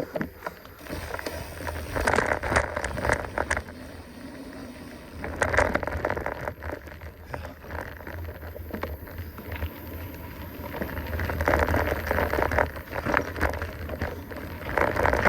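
Mountain bike rolling along a dirt trail: tyres crunching and clattering over the ground and the bike rattling, over a low rumble. The sound swells in several surges, about two seconds in, around five and a half, near eleven to thirteen seconds, and at the end.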